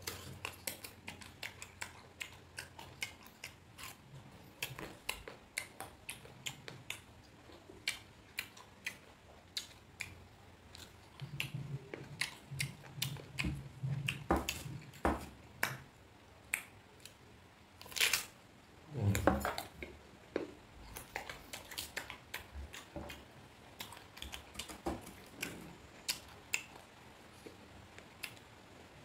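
A person chewing bites of crisp, unripe green mango, with many short clicks and crunches from the mouth and a louder stretch of chewing about two-thirds of the way in.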